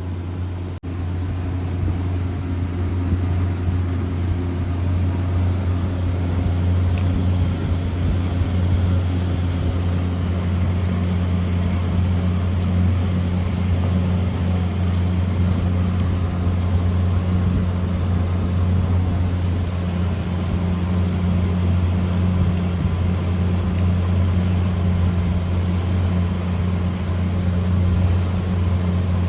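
A steady low hum with no pauses, with a brief dropout about a second in.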